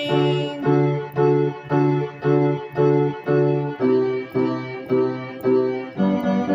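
Keyboard playing repeated sustained chords, struck about twice a second, with the chord changing about four seconds in and again near the end.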